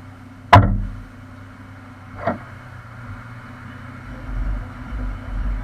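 Two sharp knocks over a vehicle's steady low hum: a loud one about half a second in and a fainter one about two seconds in. An uneven low rumble swells near the end.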